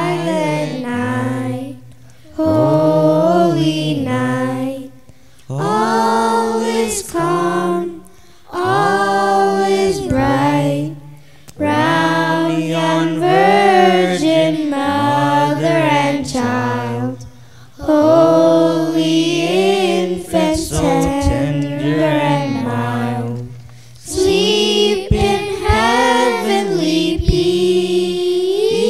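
Children's choir singing a Christmas carol together, in phrases a few seconds long with short breaks between them.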